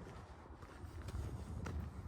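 Footsteps of a person walking along a trail, with a few light crunching clicks and a steady low rumble underneath.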